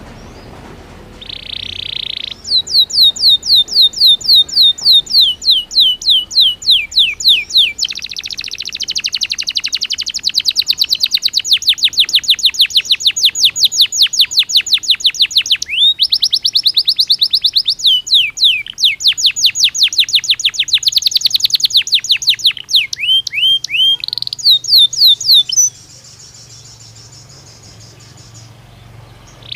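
Belgian canary singing a long song of rapid trills: runs of quick repeated notes, many of them falling in pitch, changing to a new note type every few seconds, ending with fainter high notes near the end.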